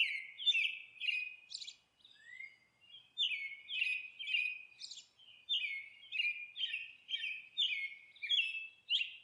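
Birds chirping in a steady run of short, bright chirps, about two a second, with a brief pause about two seconds in.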